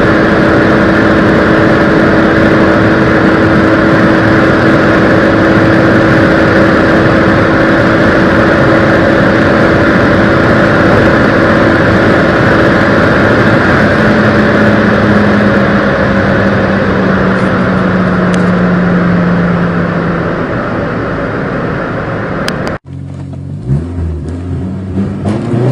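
A small car's engine running hard at steady revs for about fifteen seconds, then the pitch slowly drops and the sound fades as it eases off. About 23 seconds in it cuts abruptly to another car's engine revving up with a rising pitch.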